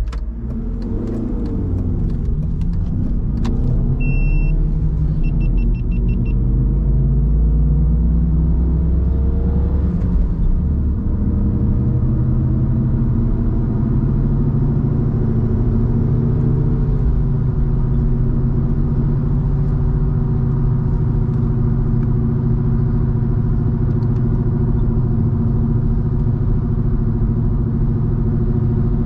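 BMW 316i E46's four-cylinder engine and road rumble as the car accelerates. The engine rises in pitch through the first ten seconds or so, then runs steadily at cruise. A short high electronic beep sounds about four seconds in, followed by a quick run of beeps.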